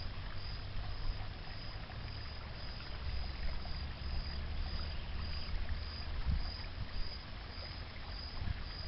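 Outdoor ambience: wind rumbling on the microphone over a steady hiss. A faint high pulse repeats about twice a second.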